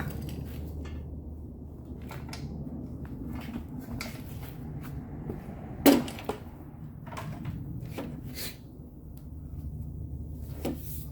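Scattered light knocks and clatter of tools and metal being handled, with one sharp knock about six seconds in, over a steady low hum.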